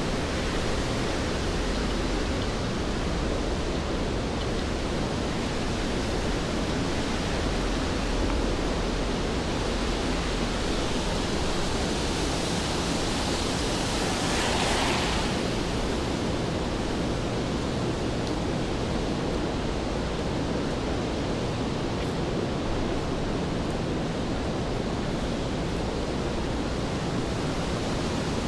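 Steady rain hissing on a wet city street. About halfway through, a louder hiss swells and fades over a couple of seconds.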